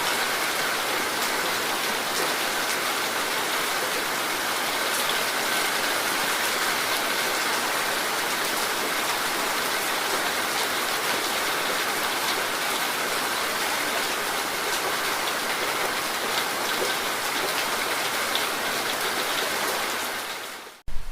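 Steady rain falling, an even hiss with faint scattered drop ticks. It fades out and stops just before the end.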